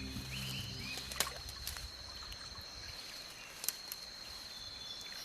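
Rainforest waterside ambience: a steady high insect drone over soft water sounds, with a couple of sharp clicks. A low hum fades out in the first second or so.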